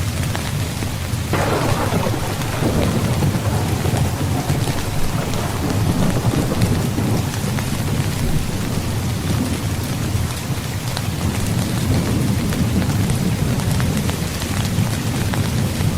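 Heavy rain falling steadily, with a thunderclap breaking about a second in and rumbling on as it fades.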